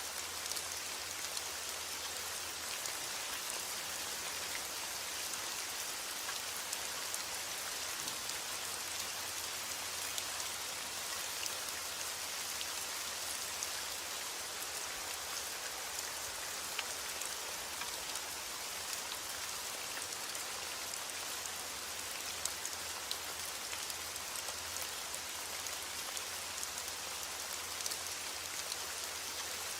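Steady heavy rain: an even hiss of falling rain with many small drop ticks scattered through it.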